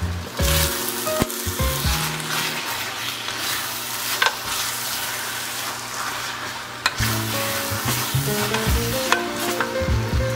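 Glass noodles, bean sprouts and scallions in chilli sauce sizzling as they are stir-fried over high heat in a frying pan, with a couple of sharp clicks from the utensils. Background music comes back in about seven seconds in.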